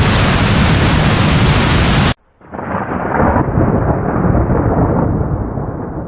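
Heavy rain hissing steadily, cut off suddenly about two seconds in; after a brief gap a long rolling rumble of thunder swells and slowly fades.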